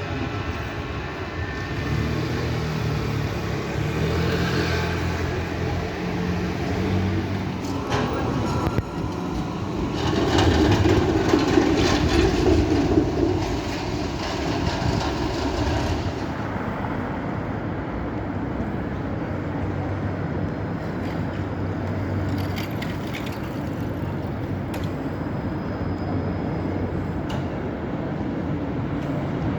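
Tram running on its rails, a steady rumble with a low hum that swells louder for several seconds near the middle. A few sharp clicks and knocks come through along the way.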